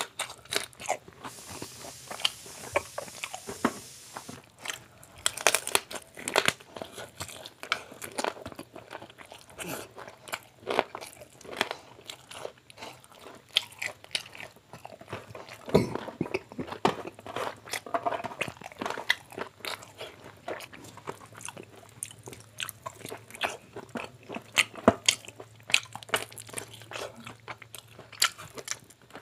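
Person biting and chewing spiced fried chicken legs, with crunching of the fried crust and irregular wet mouth clicks throughout.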